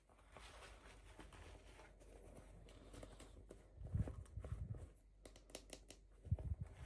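Hands handling small plastic toys and packaging: faint rustling, low thuds about four seconds in and again near the end, and a quick run of light clicks in between.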